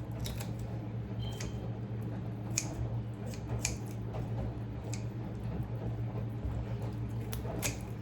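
Kitchen scissors snipping through a raw chicken's drumstick-thigh joint: a run of sharp, irregularly spaced cuts and clicks, about eight in all, over a steady low hum.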